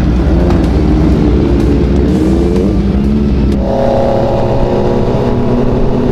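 A vehicle engine runs steadily on the move, its pitch rising briefly about two seconds in and changing to a higher steady hum about three and a half seconds in.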